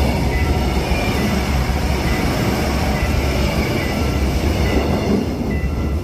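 Seoul Metro Line 1 electric commuter train passing over a level crossing at close range: a loud, steady rumble of wheels on rail, with short high tones coming and going above it.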